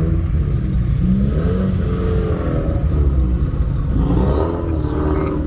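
Car engines revving at a car meet over a steady low exhaust rumble, their pitch climbing and falling several times, with a new rise near the end.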